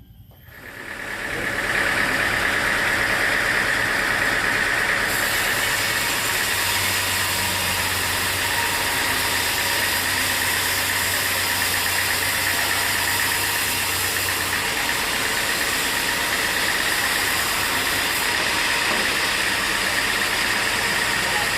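Sawmill machinery running: a loud, steady mechanical noise that builds up over the first second or two and then holds evenly.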